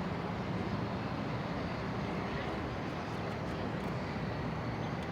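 Steady outdoor city background noise: an even low rumble with a hiss over it, like distant traffic.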